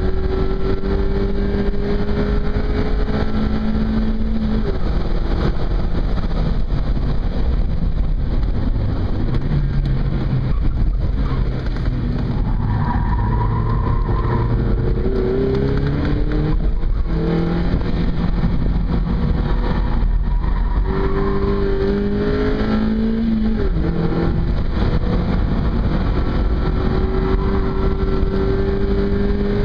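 Mazda MX-5's four-cylinder engine heard from inside the cabin at track speed: revs climb steadily, dip at several gear changes, sit lower for a stretch in the middle while rounding a corner, then climb again, over constant road and wind noise.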